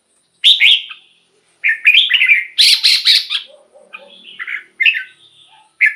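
Red-whiskered bulbul singing: four short phrases of quick, bright whistled notes with brief pauses between them, the loudest and busiest phrase in the middle.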